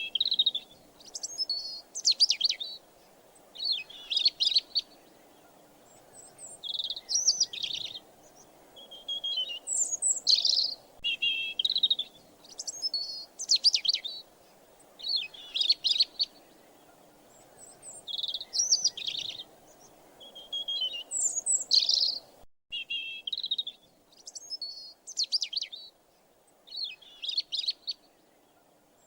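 A songbird singing short chirping phrases over and over, roughly one every second or two, over a faint steady background noise.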